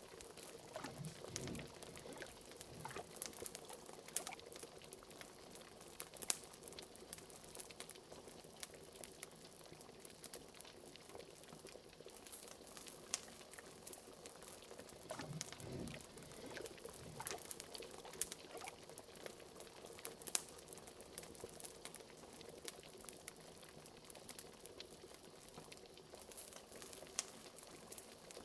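Liquid bubbling in a pot with an occasional deeper gurgle, over the scattered snaps and crackles of a wood fire.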